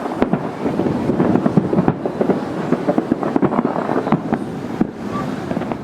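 Aerial fireworks going off in a dense, continuous run of booms and crackles.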